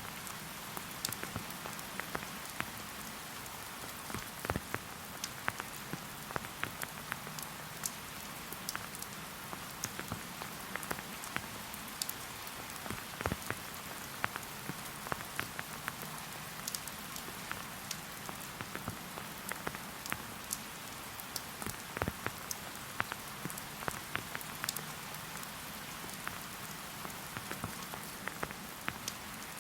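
Steady rain falling in a forest: an even hiss with many separate drops ticking close by.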